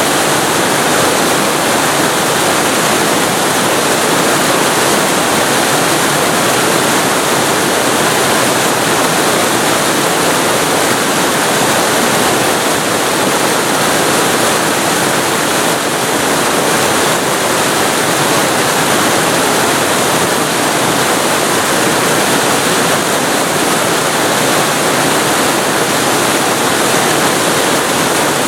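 Waterfall recorded very close to the falling water: a loud, steady, unbroken rush of water with no single splashes standing out.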